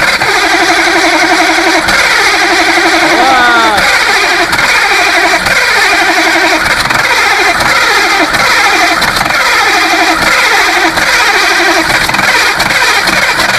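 Engine running loudly just after a cold start in frost. From about four seconds in, its speed rises and falls in a quick repeating surge, roughly every two-thirds of a second.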